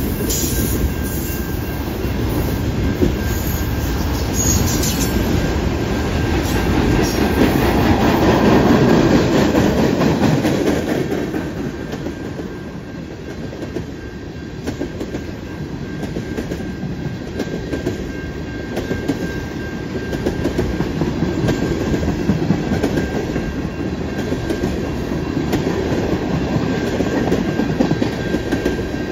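Freight cars rolling past, autoracks and then tank cars, steel wheels clicking over rail joints over a continuous rumble. It is loudest about eight to ten seconds in, then eases slightly.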